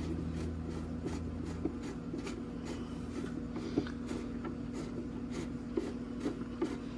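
Headlight adjuster screws being driven out, making a string of small clicks about three a second as the plastic adjuster parts move, with a low hum that stops a couple of seconds in.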